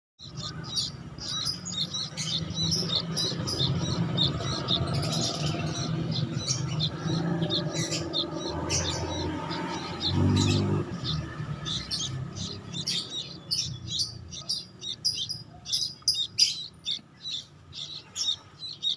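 Sooty-headed bulbul chick chirping over and over in short, high calls, the calls of a chick left without its mother. A low hum runs underneath, with a louder low sound around ten seconds in.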